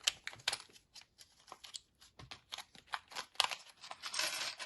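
Small plastic packaging being handled: a string of light clicks and taps, then a longer stretch of plastic crinkling near the end, as a bag of Lego minifigure helmets is opened.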